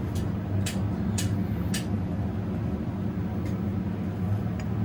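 Motorcycle workshop sounds: a steady low mechanical hum with several sharp metallic clinks of tools or parts, spaced irregularly.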